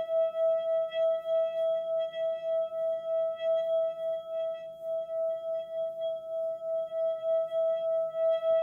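A single sustained ringing tone with fainter higher overtones, pulsing steadily about three times a second, like a rubbed singing bowl, in a calming relaxation track.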